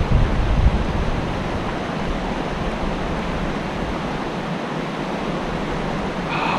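Fast creek current rushing steadily, a continuous even wash of water, with some low rumble in the first second or so.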